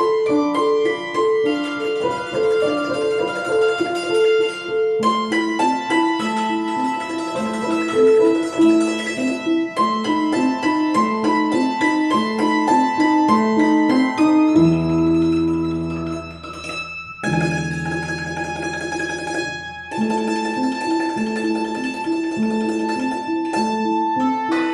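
Instrumental music: a lively piece on a string instrument with accompaniment, built on quick repeated note figures, with a passage of held low chords about fifteen seconds in.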